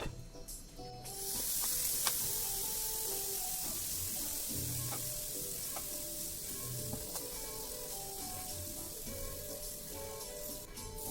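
Dosa batter sizzling on a hot griddle. The sizzle starts suddenly about a second in and slowly eases off, with light background music underneath.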